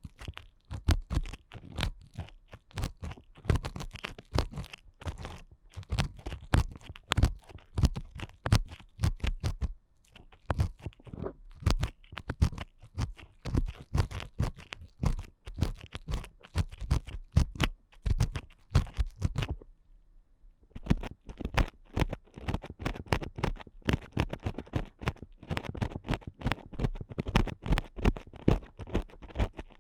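Ear picks scratching and rubbing inside an ASMR microphone's ear: a dense run of rapid, irregular scratchy strokes, broken by a short pause about two-thirds of the way through.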